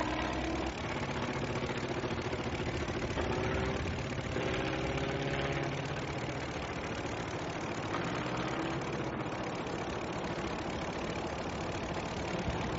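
Piston aircraft engine droning steadily, its pitch drifting slightly now and then.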